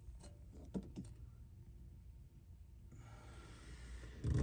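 A few faint clicks and light handling noise over a low, steady rumble, with a soft hiss coming in about three seconds in.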